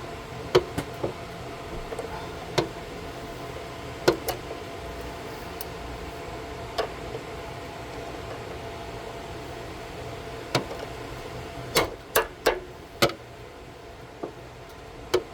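Sharp metal clinks and knocks of hand tools, a socket and extension or hammer, on the water heater's fittings: single knocks every second or two, then a quick run of four or five about twelve seconds in, over a steady low hum.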